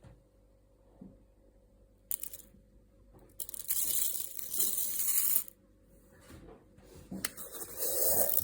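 Packaging being handled: rustling and tearing in three bursts, the longest lasting about two seconds.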